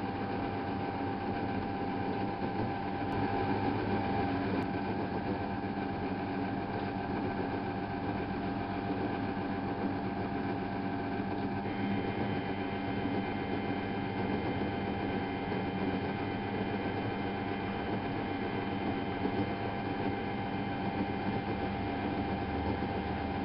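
Miele Novotronic W830 washing machine running steadily, a motor hum with a steady whine; a higher whine joins about halfway through.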